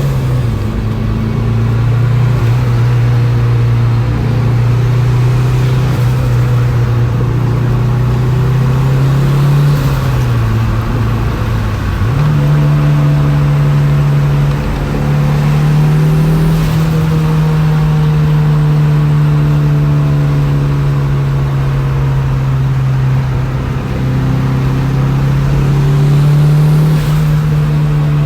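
Turbocharged Honda H22 four-cylinder engine in a 1999 Honda Prelude running under way, its note holding steady and then dropping and picking back up a few times, with turbo compressor flutter when the throttle is lifted.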